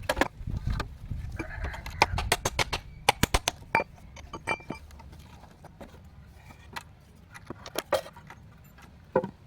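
Quick clinks and knocks of hard objects striking together, thick and fast for the first few seconds, then scattered, with a few more near the end.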